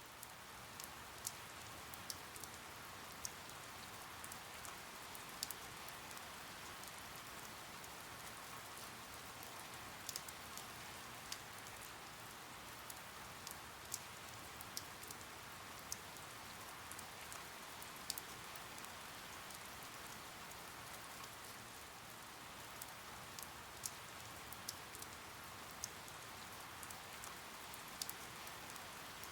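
Steady rain falling, with scattered sharp ticks of single drops striking a hard surface.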